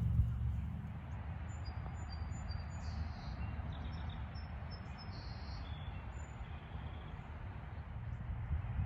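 Distant chorus of peeping amphibians from a pond, called toads here: short, high, scattered peeps. A steady low rumble of wind runs underneath.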